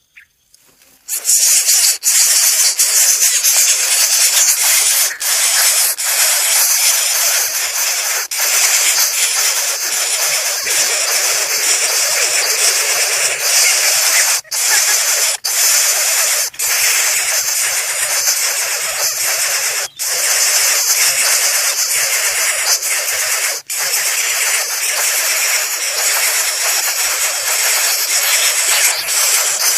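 Loud, steady hiss that starts about a second in and is broken by a few brief dropouts.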